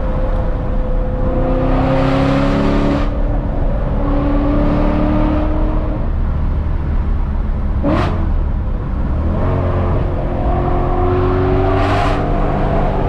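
BMW E92 M3's V8 through a valved aftermarket exhaust, accelerating through the gears: the pitch climbs, drops at each upshift and climbs again. There is a sharp crack about eight seconds in.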